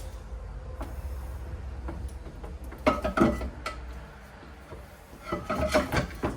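Motorcycle parts clattering and knocking as they are set into a plastic storage tote, in two bursts of hard hits with a short metallic ring, about three seconds in and again near the end.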